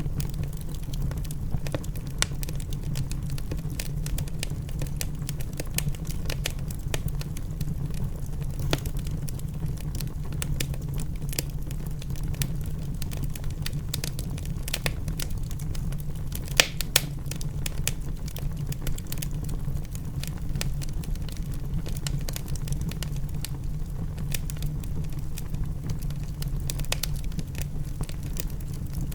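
Wood fire crackling in a fireplace: many sharp pops and snaps over a steady low rumble, with one louder pop about halfway through.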